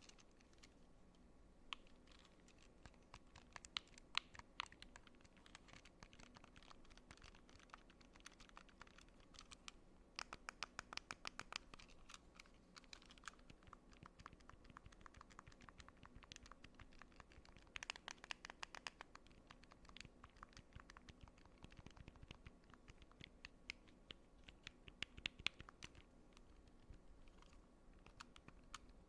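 Close-up clicking of small buttons being pressed and tapped in fast runs of many clicks a second, coming in flurries with short lulls between.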